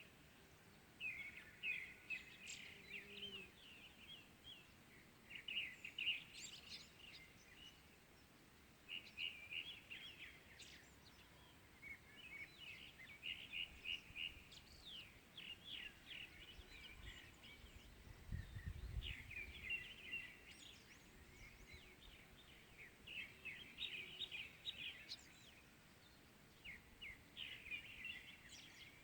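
Small birds chirping and twittering faintly in short repeated phrases of quick high notes, one burst after another with brief pauses between. A brief low rumble sounds under the birds about two-thirds of the way through.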